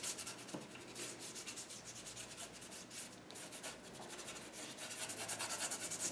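Paintbrush scrubbing acrylic paint across the painting in rapid, short back-and-forth strokes, a dry scratchy hiss, as the purple edge of the shore is worked in and blended.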